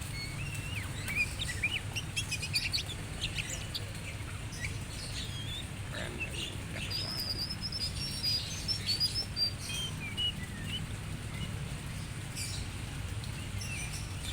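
Small songbirds in an aviary chirping and whistling: many short, high notes, some rising or falling, busiest in the first few seconds and again in the middle, over a steady low hum.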